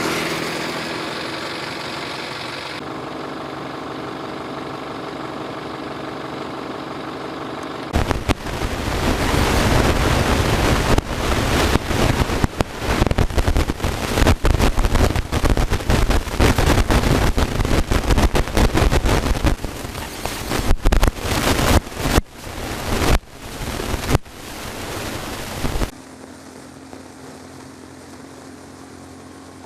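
Wind buffeting the microphone in loud, gusty rumbles from about eight seconds in until it cuts off near the end, after a steadier low hum.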